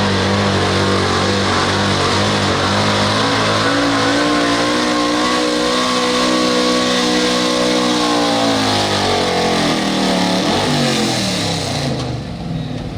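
Pulling truck's engine at full throttle on a pull, its note held high and climbing slightly, then falling away in pitch about ten seconds in as it comes off the throttle.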